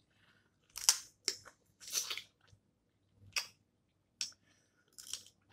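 Snow crab legs being cracked and chewed close to the microphone: about half a dozen sharp, crisp crunches, roughly a second apart.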